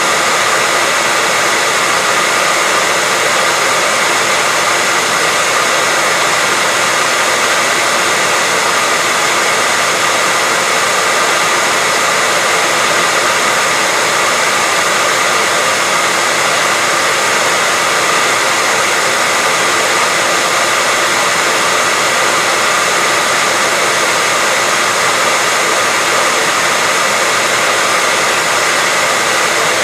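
Hair dryer running steadily, a constant whooshing noise with a faint steady whine, used as white noise to lull a baby to sleep.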